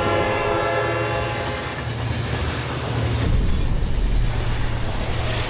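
A train horn that sounds and fades out about two seconds in, followed by the rushing rumble of a passing train that swells and then fades away.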